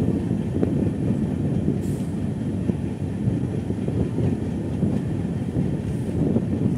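Express passenger train running along the track, heard from on board: a steady rumble of the coach and its wheels on the rails.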